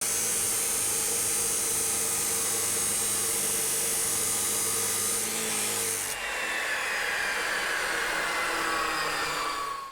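A power tool running with a loud, high-pitched whir; about six seconds in the sound changes and a whine falls steadily in pitch, then it cuts off abruptly.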